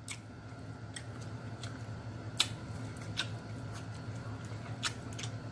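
Close-miked chewing of king crab meat, with about half a dozen sharp, wet mouth clicks and lip smacks, over a steady low hum.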